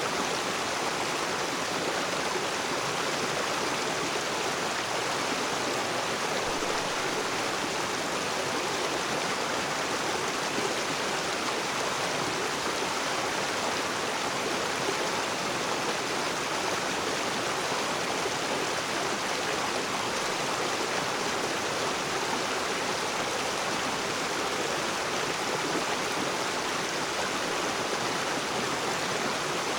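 River water rushing and splashing over rocks: a steady, even rush with no breaks.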